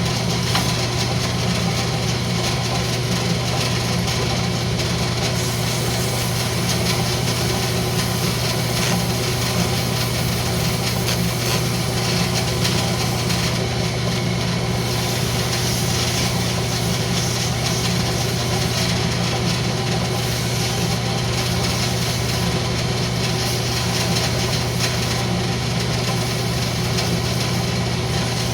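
Wood lathe running steadily with a low motor hum, and sandpaper rubbing against the spinning rosewood workpiece.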